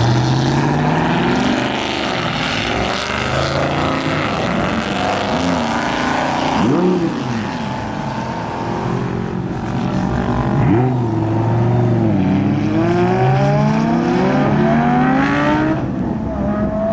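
Performance car engines accelerating hard as cars pull away, their pitch climbing and dropping through gear changes, with two quick rev blips about seven and eleven seconds in and more rising pulls near the end.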